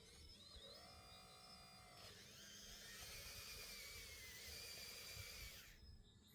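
Faint whine of a radio-controlled model's small electric motor, its pitch changing with speed. From about two seconds in it turns louder and hissier with a wavering tone, then cuts off suddenly near the end.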